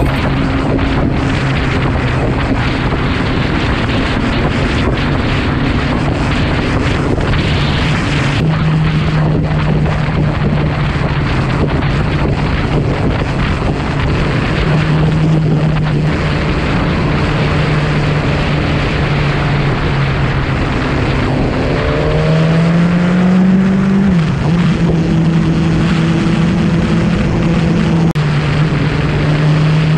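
Sport motorcycle engine running at a steady road speed, its pitch holding and shifting in small steps, with one rise that drops sharply a little over twenty seconds in. Wind rush runs underneath.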